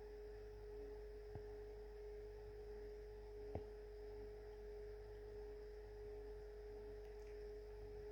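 Samsung washing machine running on its colours cycle: a faint, steady, high-pitched whine over a low hum, with a couple of light clicks.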